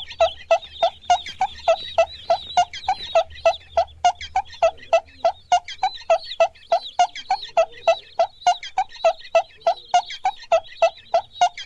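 Poultry calling in a fast, even series of short calls, about three or four a second without a break.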